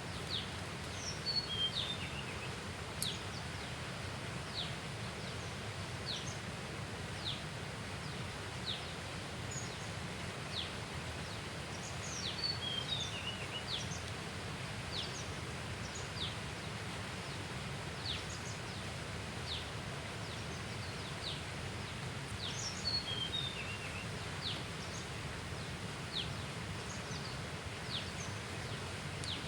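Birds calling: one repeats a short, high note that slides downward, about every second and a half, and another gives a quick burst of twittering chirps three times, over a steady low background noise.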